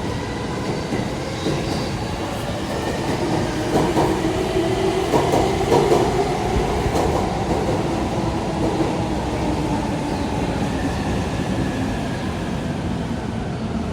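Tokaido Line local commuter train pulling into the platform and slowing to a stop: steady rumble and rattle of the passing cars, with a faint whine that sinks slightly in pitch as it slows.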